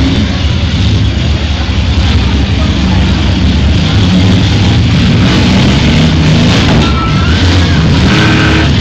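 Demolition derby minivans' engines running and revving in a loud, steady din.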